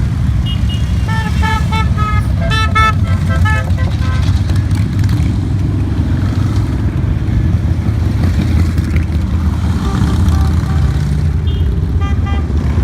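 A group of motorcycle engines rumbling steadily as the bikes ride past, with a flurry of short horn toots in the first few seconds and a few more near the end.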